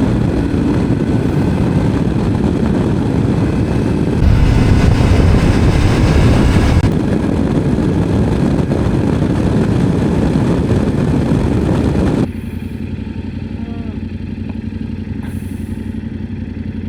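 Motorcycle on the move, its engine nearly buried under heavy wind rush on the microphone, louder for a few seconds about four seconds in. About twelve seconds in the wind noise drops away suddenly, leaving the engine running steadily.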